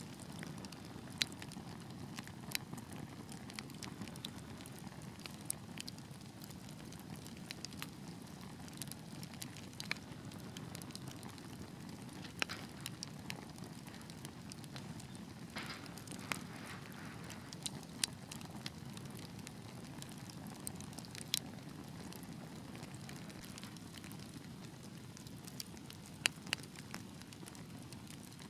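Fire burning in a fireplace, crackling with irregular sharp pops scattered over a steady low rumble of the flames.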